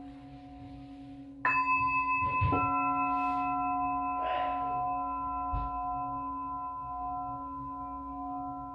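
Singing bowls ringing: a low bowl hums steadily, then a higher bowl is struck about a second and a half in and another about a second later, their bright overlapping tones ringing on and slowly fading. A soft knock comes about five and a half seconds in.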